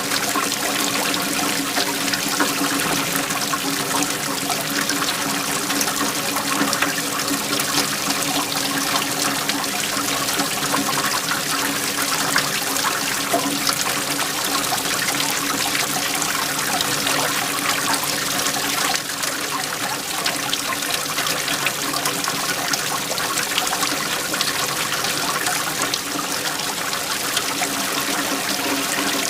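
Waterfall: a steady, unbroken rush of flowing, splashing water.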